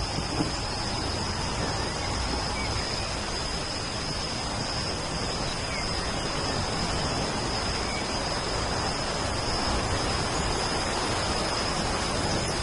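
Steady rainfall, an even hiss, with a thin steady high tone running through it.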